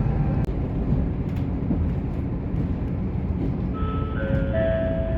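Steady low rumble of a diesel railcar running, heard from inside the car. About four seconds in, an electronic chime sounds a few stepped, held notes, the chime that introduces the automated onboard announcement.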